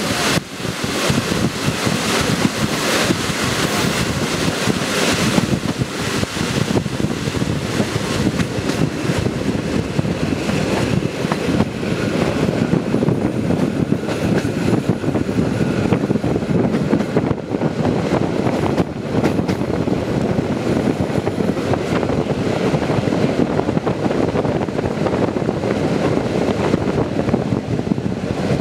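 Passenger train running at speed, heard at an open carriage window: wind buffets the microphone over the steady rumble of the wheels on the rails.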